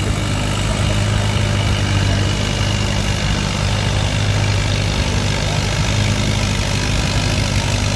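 Antique tractor engine idling steadily, with a low, even hum and no revving.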